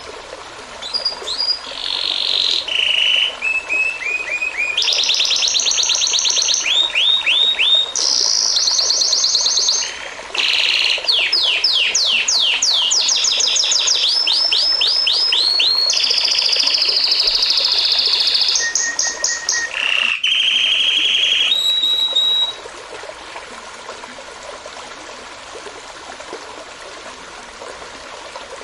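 A songbird sings a long, loud song of rapid repeated trilled notes and whistled phrases, with a short pause about ten seconds in. It stops a little past twenty seconds, leaving the steady rush of a flowing stream.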